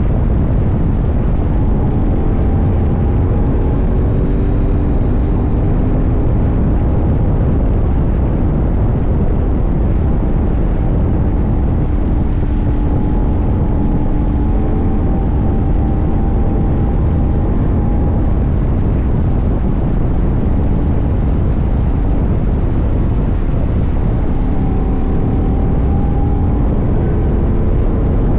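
CFMoto 800NK's 799 cc parallel-twin engine running at a steady cruise under way, mixed with loud wind rush on the tank-mounted microphone; the engine note shifts only slightly, with no hard revving or gear-change bursts.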